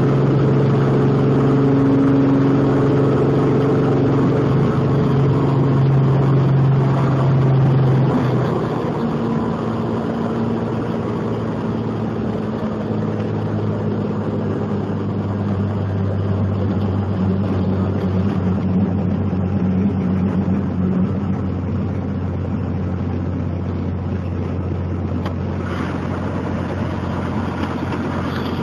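Robinson R44 helicopter's piston engine and rotor running in flight as a steady drone. About eight seconds in the pitch drops and the sound gets slightly quieter, then it holds steady at the lower pitch.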